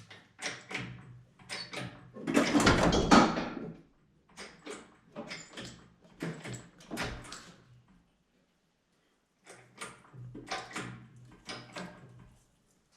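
Creaking and clunking from a Camaro engine being hoisted out of the car on an engine hoist, in irregular bursts, loudest for a couple of seconds about two seconds in.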